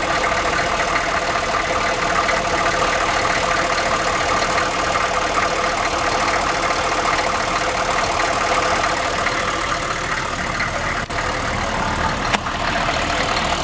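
1995 Chevy 1500's 6.5-litre turbo diesel V8, warmed up and idling steadily and smoothly.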